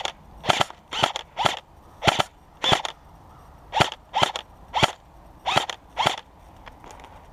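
Airsoft rifle firing single shots in semi-auto, about eleven sharp snapping reports at an uneven pace, stopping about six seconds in.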